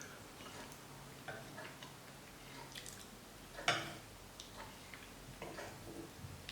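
Scattered, irregular small clicks and ticks, with one sharper, louder click about three and a half seconds in.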